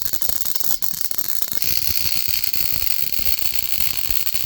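High-voltage spark gap firing over and over in rapid succession, a dense crackle of discharges with a hiss that gets stronger about a second and a half in.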